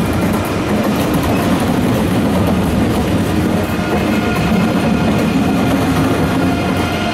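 Deutsche Bahn ICE high-speed train running past, a steady loud rumble of its wheels rolling on the rails.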